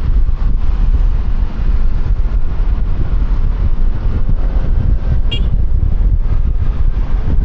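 Wind buffeting an external microphone clipped to a rider's helmet on a moving motor scooter, a loud, steady low rumble with traffic and road noise underneath. A brief high chirp sounds about five seconds in.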